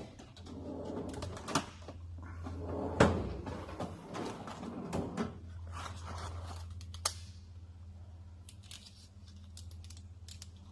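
Scattered clicks and knocks of things being handled, with one loud knock about three seconds in, over a steady low hum.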